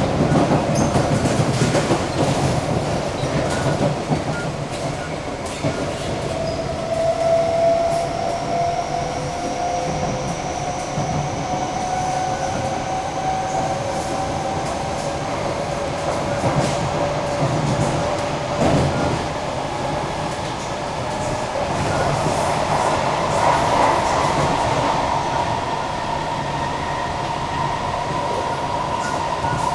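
Kawasaki-CSR Sifang C151B metro train running between stations, heard inside the car. A steady rumble with occasional wheel clicks sits under the electric whine of its IGBT-VVVF traction equipment, which glides slowly in pitch.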